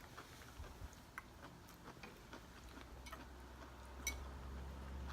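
Faint, scattered clicks and taps of chopsticks and utensils against bowls during a meal, with a sharper click about four seconds in. A low hum underneath grows louder in the second half.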